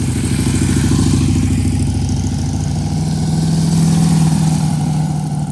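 Motorcycle engine running at low speed, rising a little in pitch and level about three to four seconds in.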